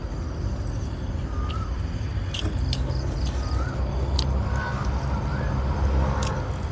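Close-up eating: chewing with sharp crunches and mouth clicks, over a steady chorus of crickets. A bird gives short rising-and-falling whistled calls about once a second in the second half.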